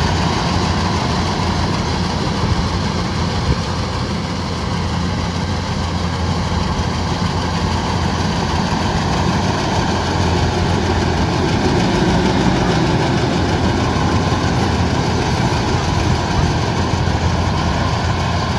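Kubota DC-105X combine harvester running: its diesel engine and machinery give a loud, steady drone with a deep hum underneath.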